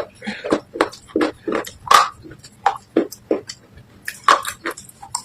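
Soaked clay and slate pieces in red paste crunched with a spoon in a bowl: a quick run of irregular sharp crunches, roughly three a second.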